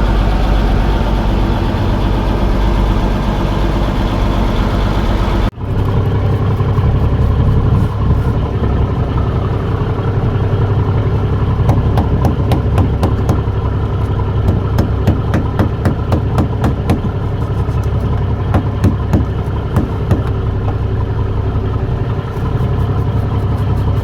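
Boat engine running steadily, with a brief drop in sound about five seconds in. Scattered clicks and knocks through the second half.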